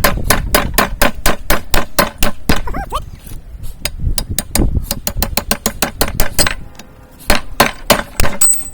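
Hand hammer striking a steel drift through the hot eye of a railroad spike on the anvil, driving it through to round out the hole: a fast run of ringing metal-on-metal blows, about five a second, then a short pause and a few harder blows near the end.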